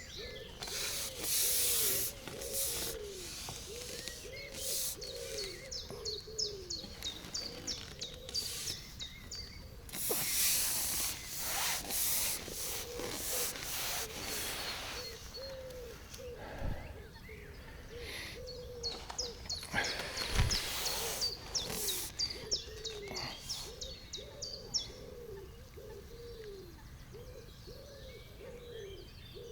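Birds calling and singing: a long run of short, low falling notes with quick high chirps over them. Several bursts of rushing noise break in, the longest about ten to fifteen seconds in and again around twenty seconds in.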